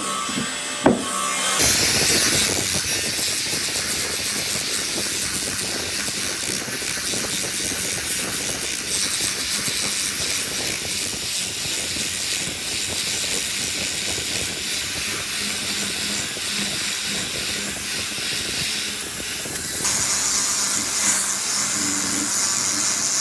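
Two sharp clicks, then a steady hiss that carries on without a break. The hiss gets slightly louder and brighter near the end.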